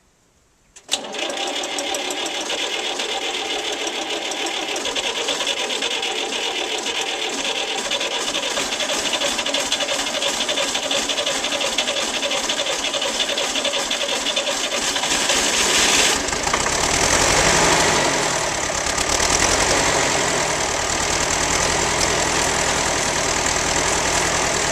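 A 1953 Ferguson FF30's diesel engine on a cold start after three months standing: the starter cranks it steadily for about fifteen seconds, then the engine catches and runs with a low, even beat.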